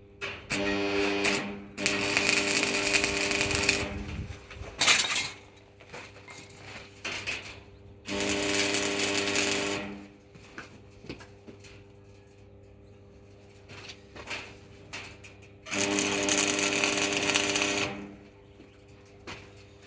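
An electric power tool working metal runs in three bursts of about two seconds each, with a steady motor pitch under a hissing cutting or grinding noise. Between the bursts come light clicks and knocks of metal parts being handled.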